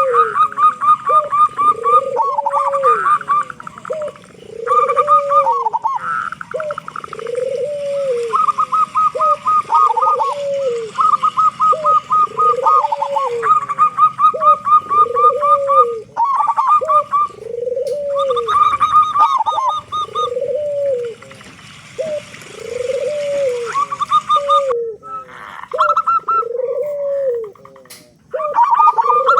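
Zebra dove (perkutut) cooing over and over, one arched coo about every two seconds, with rapid, higher stuttering notes running alongside. The singing breaks off briefly near the end.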